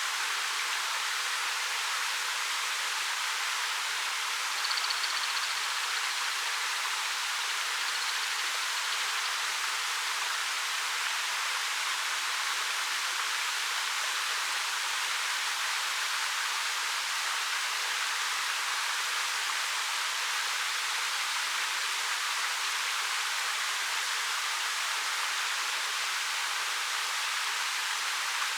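A 13 m waterfall pouring over dark rock: a steady, even rush of falling water, light on bass.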